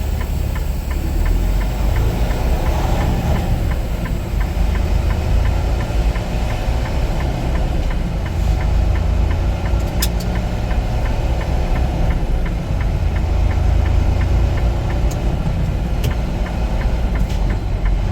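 Semi truck's diesel engine running steadily, heard from inside the cab as a low rumble with a regular light ticking. A few sharp clicks come in the second half.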